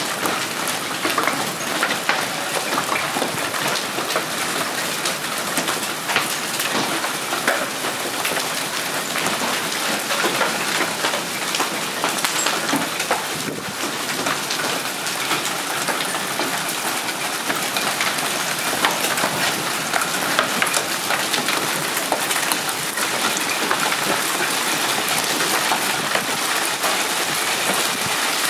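Hailstorm: hailstones and rain pelting down, a dense, steady clatter of many separate impacts over a constant rushing patter.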